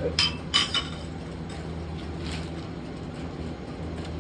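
Two sharp metallic clinks in the first second, a rake striking the ceiling fan's housing and parts, over a steady low hum.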